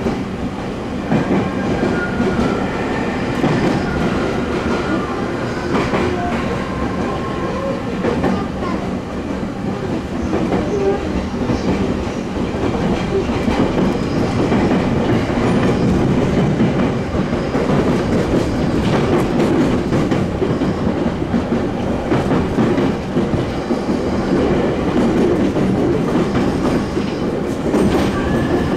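Running noise inside a JR East E231-series electric commuter train car at speed: wheels clacking over rail joints under a steady rumble, with faint whining tones from the traction equipment in the first several seconds.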